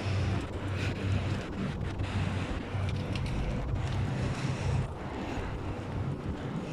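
Strong sandstorm wind buffeting the phone's microphone in gusts, with a steady rushing of wind.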